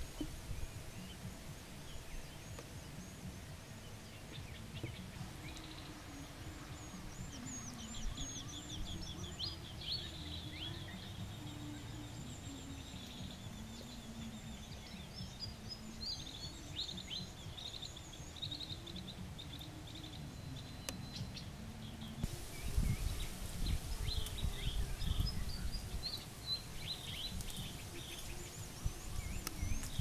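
Birds chirping and twittering in quick, high notes over a steady low rumble of outdoor background noise, which changes abruptly about two-thirds of the way through.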